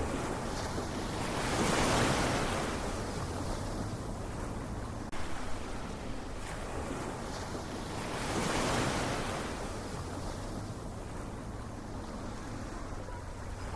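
Ocean surf: waves breaking and washing in, two swells rising and falling about six seconds apart over a steady rush of water.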